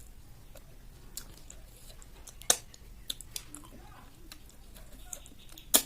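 Close-miked chewing of snail curry, with scattered small mouth clicks and two sharp clicks, one about two and a half seconds in and one near the end.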